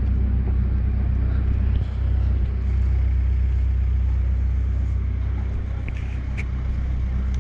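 Steady low drone of a motor vehicle engine running, even and unbroken, with a few faint clicks about six seconds in.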